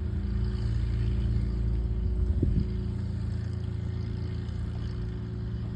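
Aircraft engine running close by: a loud, steady low drone that eases slightly after about two and a half seconds.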